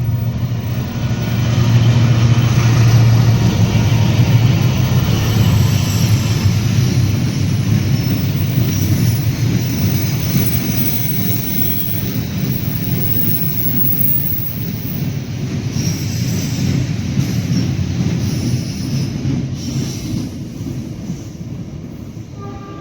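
A long train rolling past over a railway bridge, a dense steady rumble of wheels and wagons on the rails. It is loudest a few seconds in and slowly fades as the train goes by.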